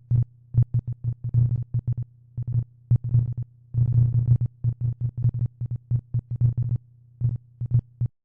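Synthesizer blips: short low tones at irregular intervals, some in quick clusters, each with a faint click, stopping abruptly near the end.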